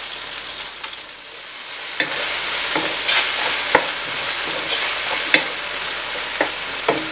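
Halved cherry tomatoes sizzling in a hot nonstick pan with balsamic vinegar just added, stirred with a wooden spatula that knocks against the pan about six times. The sizzle grows louder about two seconds in, when the stirring starts.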